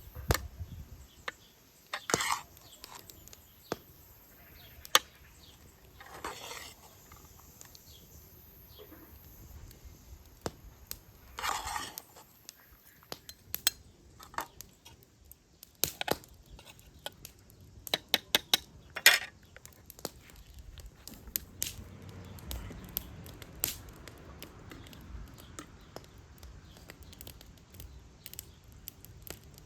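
Kitchen utensils clinking and knocking against dishes and pots: scattered sharp clicks, with a quick run of them a little past the middle.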